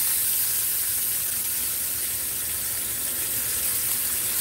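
Flour-dredged pork chops frying in hot oil in a skillet: a steady sizzle.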